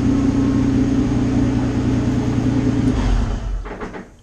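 Nissan March race car engine idling in gear on stands, then cut by its external kill switch: it runs steadily, gives a low shudder about three seconds in, and dies away to a stop within the next second.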